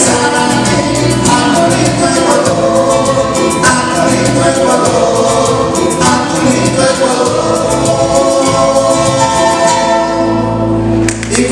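A trio of voices singing together over instrumental backing with a steady beat. The song ends on a held final chord from about ten seconds in.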